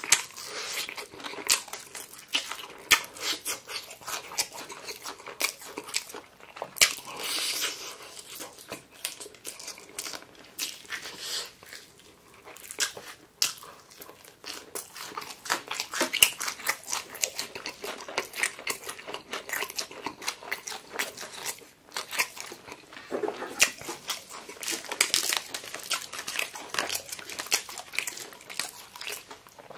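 Close-miked chewing of crispy fried chicken: irregular crunching bites and crackling of the fried batter, with wet mouth sounds between.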